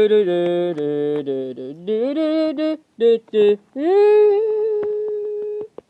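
A voice humming a tune in short and held notes, ending on one long held note.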